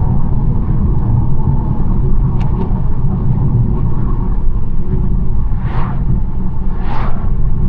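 BMW 1 Series driving on a country road: a steady low rumble of engine and tyre noise. Two short whooshes rise and fall near the end.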